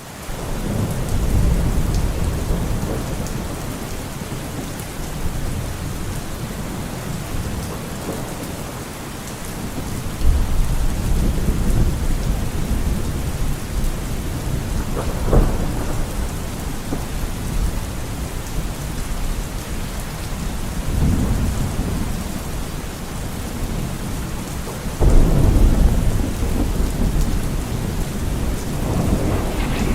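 Steady heavy rain with rolling thunder: deep rumbles swell about a second in, again around ten and twenty-one seconds, and loudest about twenty-five seconds in, with a sharper clap near fifteen seconds.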